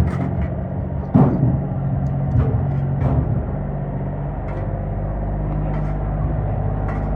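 A motor running steadily with a low hum, with a few knocks over it, the loudest about a second in.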